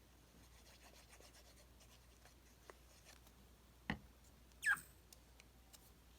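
Faint rustling and rubbing of paper pieces being handled, with a sharp knock about four seconds in and a brief high squeak just after it that falls in pitch.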